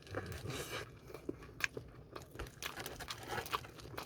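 Close-up crunching bites and chewing of cold seasoned fried chicken, a run of sharp crackles from the crispy coating.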